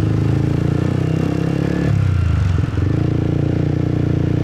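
Motorbike engine running steadily while riding, its note shifting briefly about two seconds in.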